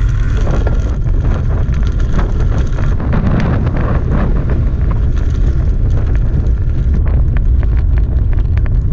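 Heavy wind buffeting a camera microphone on a moving bicycle: a loud, steady low rumble with scattered clicks and rattles throughout.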